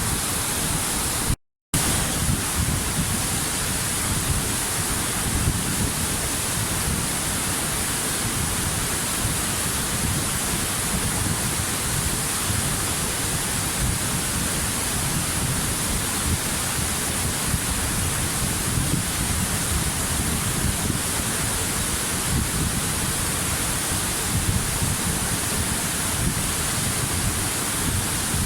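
Waterfall: a steady, even rush of falling water, with a strong hiss in the high range. The sound cuts out completely for a moment about a second and a half in.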